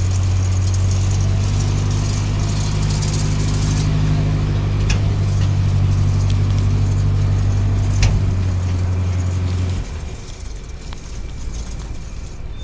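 An engine running steadily at a constant speed, with two sharp knocks, then cutting out about ten seconds in, leaving a quieter background rumble.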